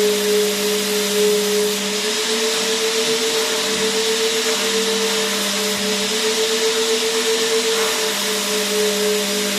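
Vacuum cleaner motor running continuously: a steady rushing hiss with a whine whose pitch wavers slightly up and down, over a low hum.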